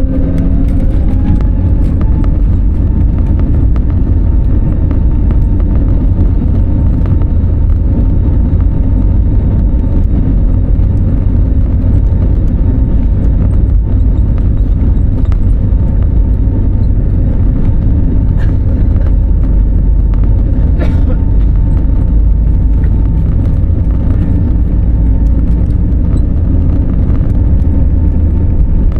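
Inside the cabin of an Airbus A320neo in flight operation: a heavy, steady engine and airflow rumble. An engine tone rises in pitch in the first second or two, then holds steady, with a few faint clicks later on.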